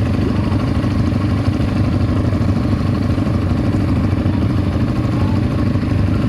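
ATV engine running with a steady, even drone.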